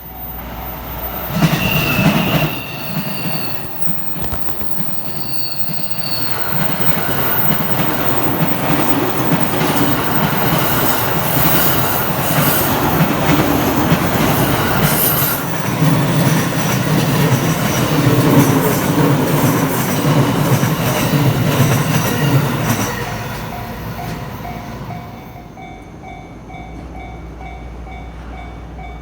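Electric commuter train running past over a level crossing, with a high wheel squeal in the first few seconds and wheel clatter over the rails, dying away after about 23 seconds. A level-crossing warning bell keeps ringing in a steady repeating pattern as the train noise fades.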